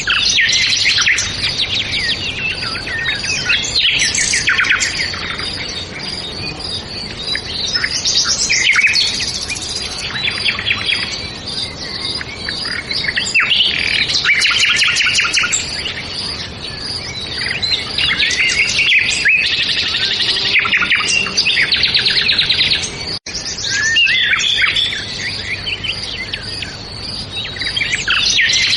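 Several songbirds singing and chirping together in a dense, continuous chorus of quick trills and repeated phrases, over a steady outdoor hiss, with a brief dropout about 23 seconds in.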